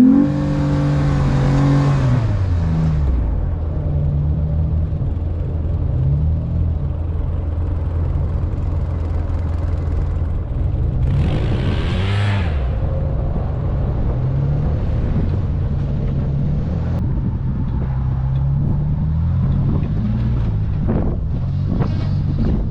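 Motor vehicle engine running under load, its pitch rising sharply at the start and then rising and falling as it is driven, with a rush of noise about halfway through.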